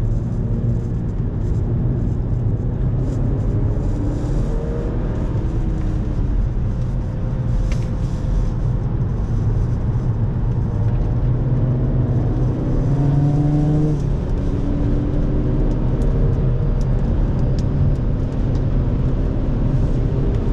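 Audi saloon's engine heard from inside the cabin under hard acceleration on a race track. Its pitch climbs more than once over a steady rumble of tyre and wind noise.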